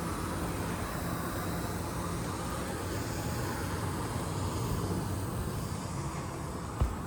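Steady outdoor background noise with a low rumble, and a single short thump a little before the end.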